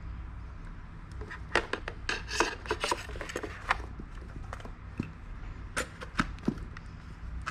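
Irregular scraping and rubbing with sharp clicks, like tools or small objects being worked by hand, over a low steady hum.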